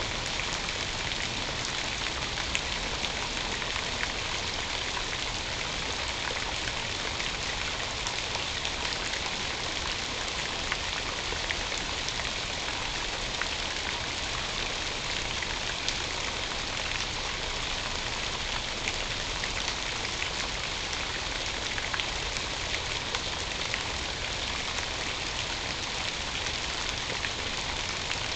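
Steady rain falling: a constant hiss with scattered sharp ticks of single drops striking close by.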